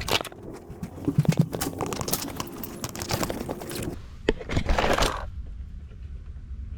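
Clattering, clicking and rustling as things are handled and carried, with sharp clicks about a second in and again past the four-second mark; from about five seconds in it settles to a quieter low hum.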